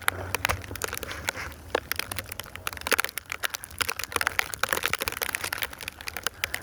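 Dense, irregular crackling and crinkling close to the microphone: snow and the phone's plastic waterproof case being handled and brushed, over a steady low rumble.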